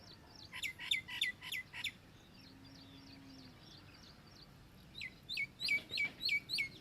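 A bird calling in two quick runs of sharp, falling notes, several notes each, one about half a second in and one near the end. Fainter chirping from other birds runs under it.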